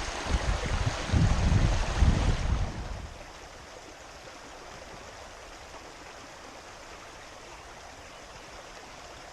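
Creek water running in a steady, even rush. For the first three seconds a louder, gusty low rumbling lies over it, then stops.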